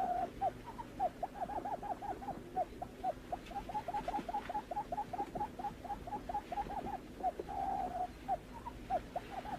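Barred buttonquail calling: a fast run of short, hooked hooting notes, about five a second, broken by a longer rolling note at the start and again about seven and a half seconds in, over a faint steady hum.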